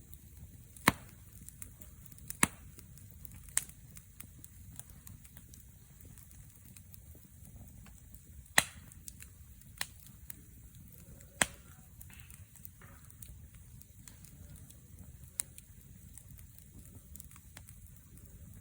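Wood fire crackling, with sharp pops at irregular intervals, about seven loud ones, over a faint steady low rush.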